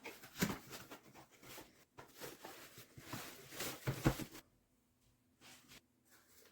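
Close handling noises: a run of rustling, scraping and clicking for about four and a half seconds, then two short faint rustles near the end.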